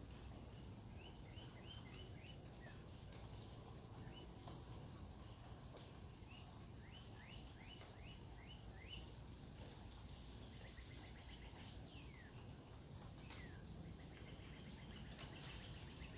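Faint birdsong over steady low background noise: two quick runs of about five or six short rising chirps, about a second in and again around seven seconds in, then two falling whistled notes near the middle-to-late part.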